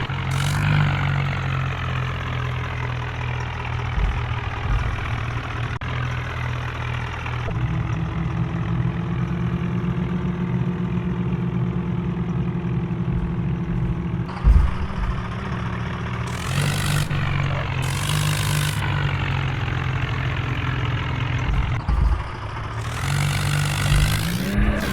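Diesel tractor engine running under load and being revved, its pitch dipping and rising again near the start and near the end. Several short bursts of hissing noise in the second half.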